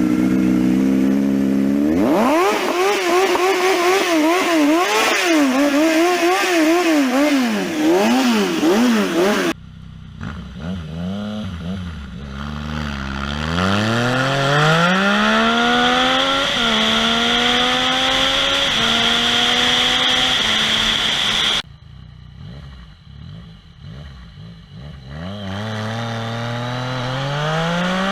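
Yamaha MT-09's three-cylinder engine through an aftermarket Firetong exhaust: it idles for about two seconds, then is revved up and down repeatedly. Then it pulls hard under acceleration, its pitch climbing through each gear and dropping at each upshift, with a quieter spell before a last climb near the end.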